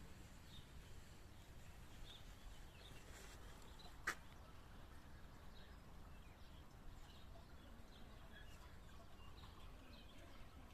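Faint birdsong: scattered short bird chirps over a low outdoor background hum, with one sharp click about four seconds in.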